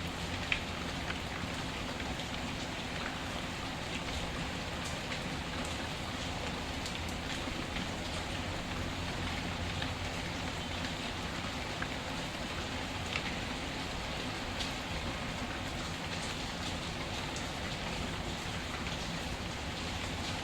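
Steady rain with scattered sharp crackles and pops from a burning wood fire.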